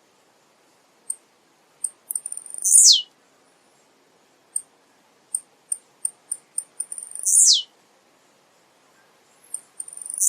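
Male blue-black grassquit (tiziu) singing. It gives scattered very high, short ticks, then a quick falling sweep; there are two full songs, and a third starts at the very end.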